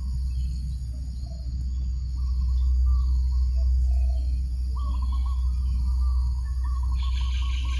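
Birds calling in short notes, then a quick repeated trill from about halfway through, over a steady low rumble of breeze on the microphone. A higher, even buzz comes in near the end.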